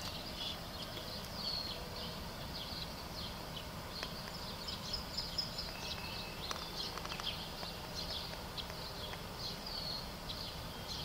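Birds chirping in many short, high calls, scattered through, over a steady low background hum.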